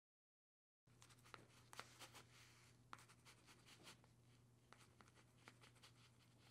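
Faint scratching of a pen writing on a paper notepad, with short sharp ticks as the pen strokes the page, starting about a second in over a low steady hum.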